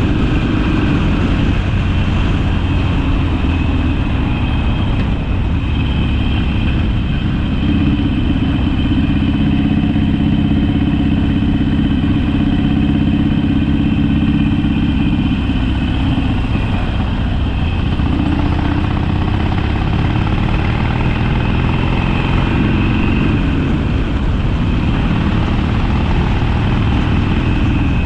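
Harley-Davidson Sportster V-twin engine running under way on the road. It is steady and loud, and its pitch rises and falls a little as the throttle changes.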